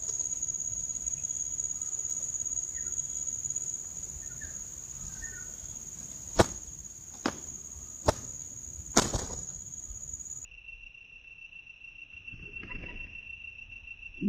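Steady high-pitched insect trill, broken by four sharp clicks between about six and nine seconds in. After a cut about ten seconds in, a lower, quieter steady insect tone takes over.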